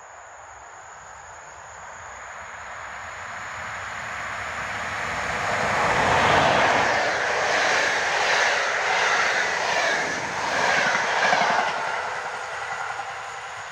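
An EP07 electric locomotive hauling a train of passenger coaches passes by. The sound grows as it approaches, is loudest as the locomotive goes past about six seconds in, carries a rhythmic clatter of wheels as the coaches roll by, then fades near the end.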